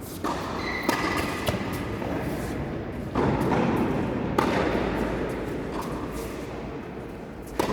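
Tennis ball being hit back and forth in a rally: sharp racket strikes and bounces, several knocks about a second or so apart.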